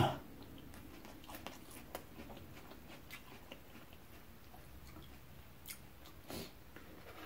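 Close-miked chewing of food, with scattered soft mouth clicks and smacks and a slightly louder click about six seconds in.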